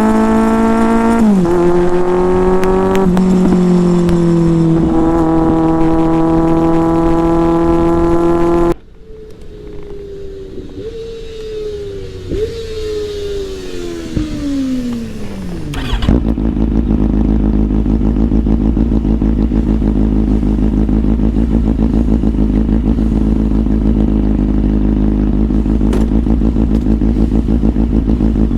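Inline-four motorcycle engine under way. It runs steadily with a few sudden pitch steps from gear changes, then the throttle shuts about nine seconds in and the revs fall away, with two quick blips. From about halfway on it settles into a steady, low, dense running sound.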